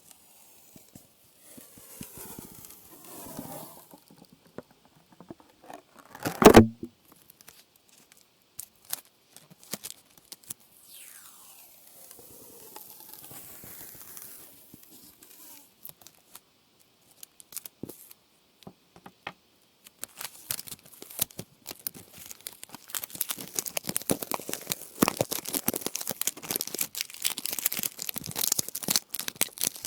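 ASMR trigger sounds: soft rubbing strokes, one loud knock about six and a half seconds in, scattered small clicks, then dense crinkling and crackling in the last third, like something being crumpled or torn against the microphone.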